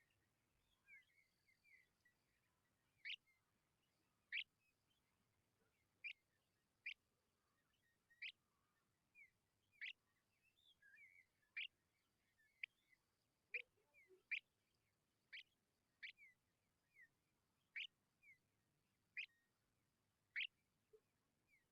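Tawny pipit calls: short, sharp, high chirps repeating roughly once a second, with softer twittering chirps between them, faint overall.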